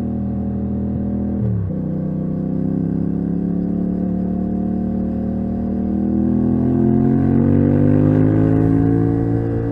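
Yamaha MT-07's 689 cc parallel-twin engine through a titanium Akrapovic exhaust, heard from the rider's seat under way. Its pitch drops sharply about a second and a half in, holds steady, then climbs and gets louder under throttle from about six seconds before easing slightly near the end.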